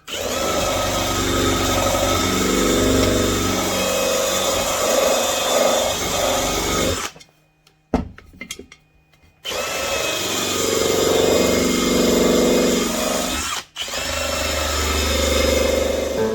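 Handheld drill-type power tool running against the aluminium canner lid's sealing surface, its pitch sagging and recovering as it bears on the metal. It stops for about two seconds midway, with a click in the gap, then runs again, dropping out once more briefly near the end.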